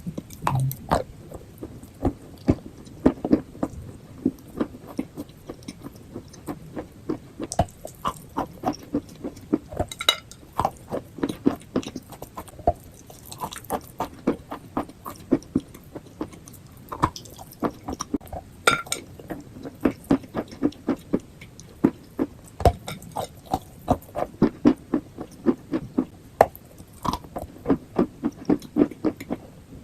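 Chalk and clay being bitten and chewed close to the microphone: a steady run of sharp crunches, two or three a second.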